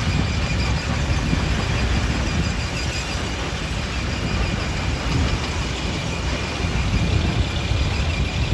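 Heavy quarry machinery running steadily: a continuous low rumble with a faint high whine.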